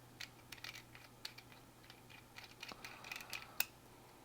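Small brass puzzle parts clicking and scraping lightly against each other as a threaded piece is handled and screwed into the brass cannon by hand: a scatter of faint, irregular clicks, with a sharper one near the end.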